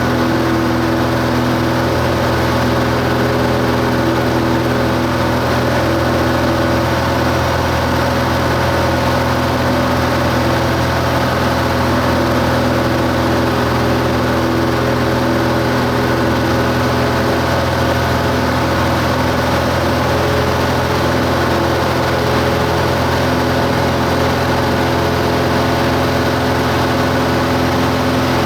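Cessna 172 Skyhawk's piston engine and propeller running at a steady power setting in flight: a loud, even drone with a constant pitch.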